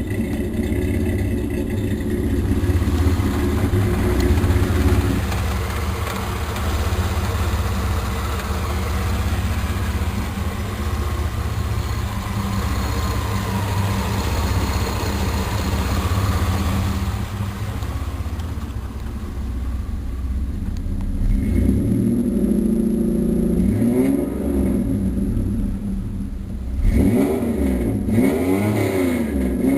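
1987 Chevrolet Camaro's 2.8-litre V6 running through its exhaust: a steady idle at first, then a rougher stretch. In the last several seconds it is blipped several times, the pitch rising and falling back with each rev.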